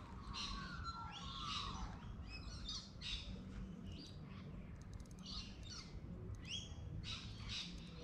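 Birds calling along the water's edge: many short, high chirps repeating throughout, with a few falling whistled notes in the first two seconds.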